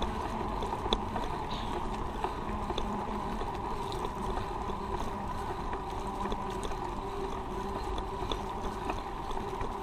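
Steady rushing noise of a road bike being ridden, with tyres on the road and wind over the microphone, and a few light clicks.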